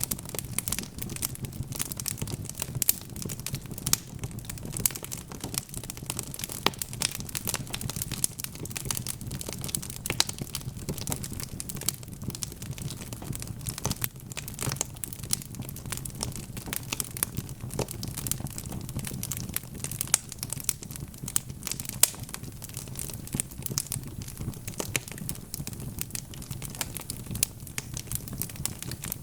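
Wood fire crackling steadily, with many small irregular snaps and now and then a louder pop, over a low steady rumble.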